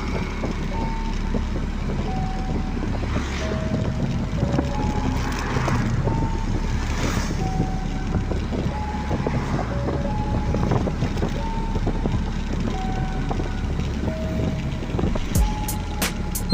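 Heavy truck's diesel engine running with a steady low rumble and several swells of noise, under a simple tune of single beeping notes. A run of sharp clicks comes near the end.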